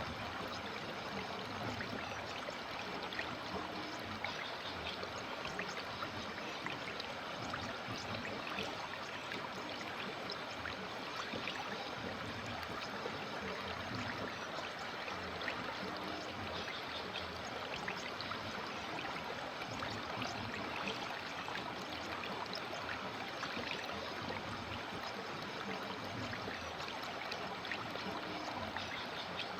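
River water flowing steadily, a continuous rushing burble over the stream bed with many small splashes and trickles.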